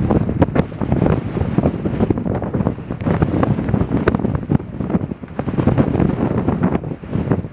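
Strong wind buffeting the microphone: a loud, gusty low rumble with rapid fluttering.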